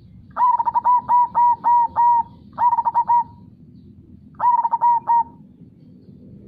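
Zebra dove (perkutut) cooing in three bursts of quick repeated notes: a long run of about seven notes, then two shorter runs of three or four notes. Underneath is a low, steady background noise.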